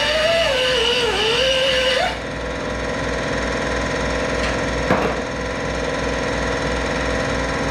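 Electric grinder running on the broken cast iron, grinding the break edges ready for welding. For the first two seconds its pitch wavers as it is loaded. About two seconds in the sound changes abruptly to a steadier run, with a single sharp knock about five seconds in.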